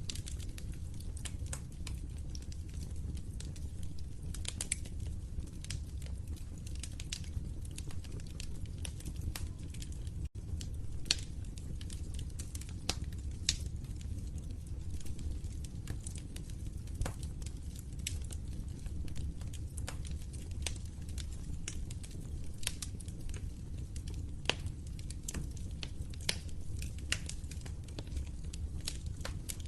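Log fire in a fireplace crackling, with irregular sharp pops and snaps over a steady low rumble of the flames. The sound cuts out for an instant about ten seconds in.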